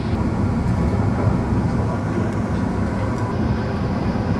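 Steady low rumble of a moving London Midland passenger train heard from inside the carriage: wheels running on the rails and the train's running noise.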